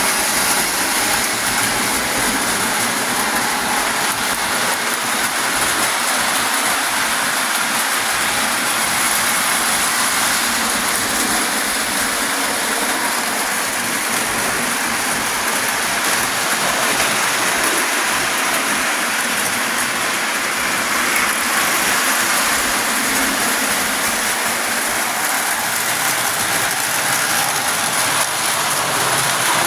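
Pre-war Lionel tinplate toy train running steadily around tinplate track, its wheels and electric motor making an even, unbroken rushing noise.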